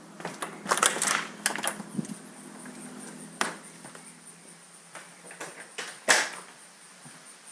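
Irregular rustling and sharp clicks, a cluster about a second in and a loud single one near the end. Under them runs a faint, high, evenly pulsing chirp.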